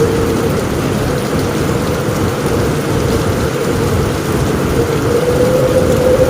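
Heavy rain falling steadily on a roof, with low thunder underneath.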